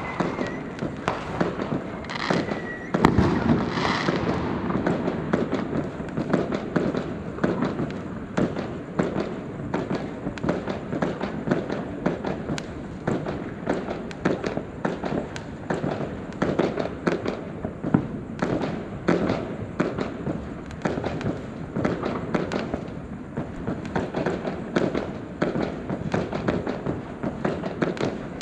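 Fireworks going off without pause: dense, rapid crackling and popping, with a louder cluster of bangs about three seconds in.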